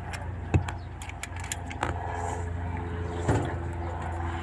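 An engine running steadily with a low, even hum, over which metal tools clink sharply on metal a few times, loudest about half a second in and again a little after three seconds in.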